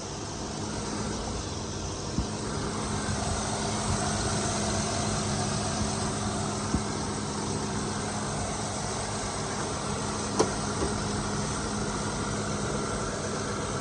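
Car engine idling steadily with a constant hum, with a few light metallic clicks.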